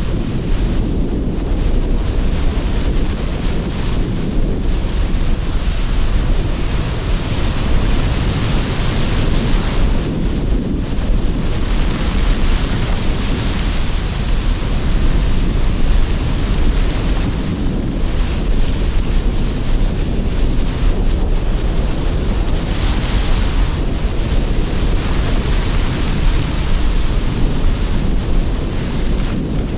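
Sea surf breaking and washing ashore under strong wind, with a steady low rumble of wind buffeting the microphone. Hissing swells of surf rise and fall every few seconds, loudest about eight seconds in and again near twenty-three seconds.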